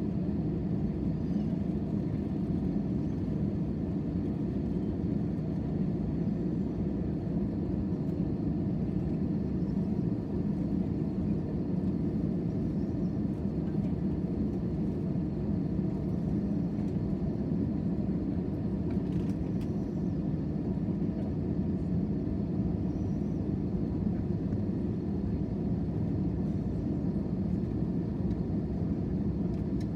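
Steady drone of a jet airliner heard from inside the passenger cabin: engine and airflow noise with a faint high whine, unchanging throughout.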